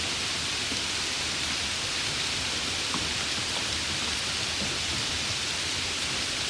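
Steady rain falling, an even hiss with a few faint separate drops.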